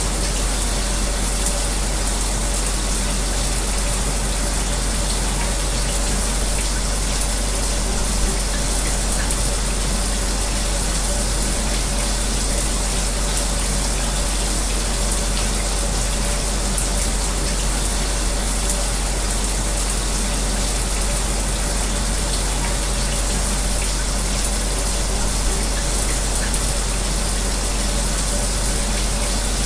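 Shower water running steadily with the even hum of a fan mixed underneath, a constant white-noise hiss with no breaks.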